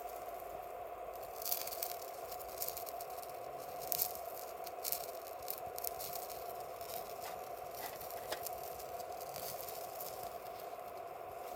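Wood campfire crackling, with irregular snaps and pops over a steady hum.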